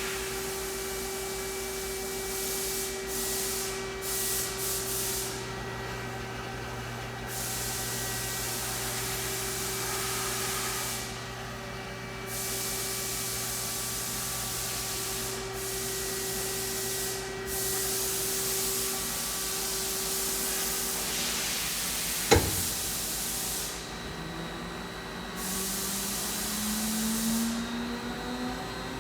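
Mazak Quick Turn QT-300 CNC turning center running, with a steady machine hum and a hiss that comes and goes. There is one sharp click about three quarters of the way through, and near the end a rising whine as something on the machine, likely the spindle, speeds up.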